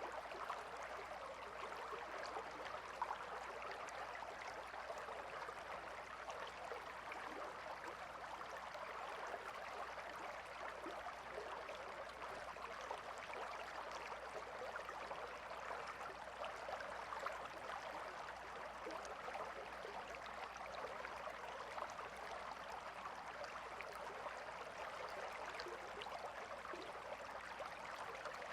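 Calm river flowing: a steady, even rush of running water.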